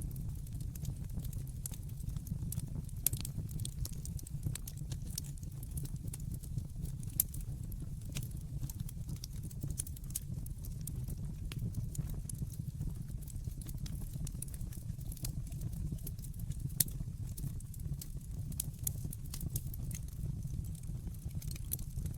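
Wood fire burning in a fireplace: a steady low rumble of flames with irregular crackles and a few sharper pops.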